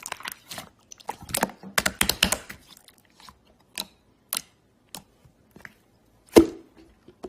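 Slime being squeezed and poked by hand, giving a quick run of crackling clicks and pops from trapped air, then scattered single clicks and one loud, deep pop about six seconds in.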